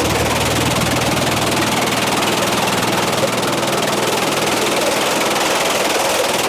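Sawmill machinery running steadily, a loud, even engine-like drone.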